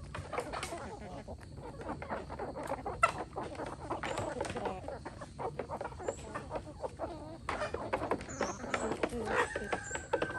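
A flock of chickens clucking continuously in a dense jumble of overlapping calls, with a few short high chirps over it and a brief whistled note near the end.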